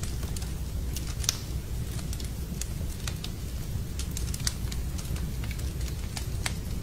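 Wood fire burning in a fireplace: a steady low rumble of flames with frequent irregular sharp crackles and pops, one louder pop about a second in.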